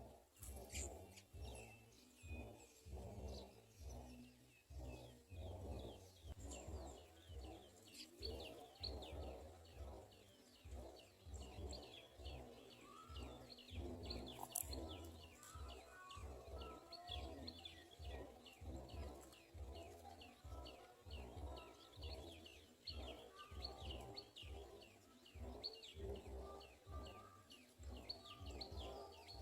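Small birds, likely house sparrows, chirping in a long run of short, quick, falling chirps, a few a second. Under them runs a low, uneven pulsing rumble.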